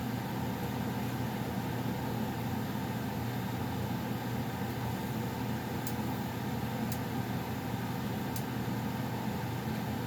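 Goodman gas furnace's blower still running steadily after the heat has been switched off, a constant hum and rush of air, with a few faint ticks partway through.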